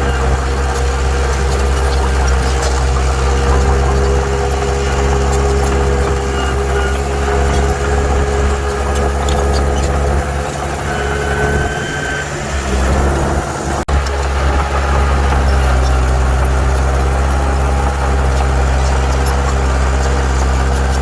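Heavy diesel engine of earthmoving machinery running steadily. Its low drone eases off for a couple of seconds just past the middle, then comes back after a sharp momentary break.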